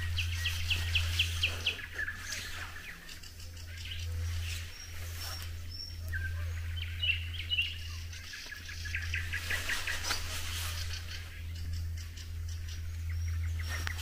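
Songbirds singing in the evening: quick trilled runs of short repeated notes near the start and again past the middle, with single chirps between. A steady low hum sits underneath.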